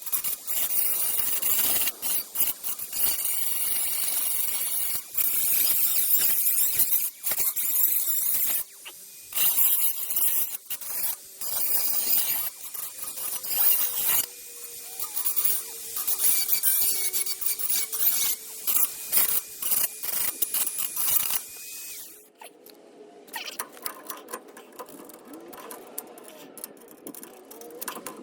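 Dremel rotary tool grinding through metal in repeated passes: a loud, high-pitched hissing screech broken by many short pauses. It stops about 22 seconds in, leaving faint scraping and handling sounds.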